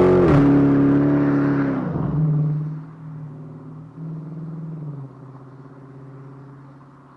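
2016 Dodge Charger R/T's 5.7-litre Hemi V8 falling back from a rev, its pitch dropping over about two seconds, then settling to a steady idle. The idle is a little louder for a moment about four seconds in, then fades toward the end.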